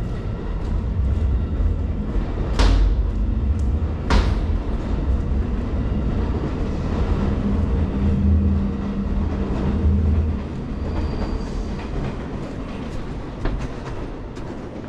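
A train running by, a heavy steady rumble with two sharp clacks about two and a half and four seconds in, and a steady low hum in the middle.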